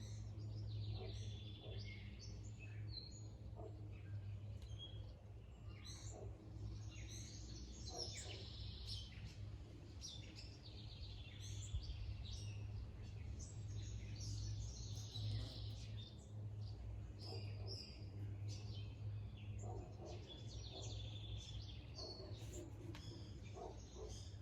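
Wild birds chirping and calling, many short calls overlapping throughout, over a steady low hum.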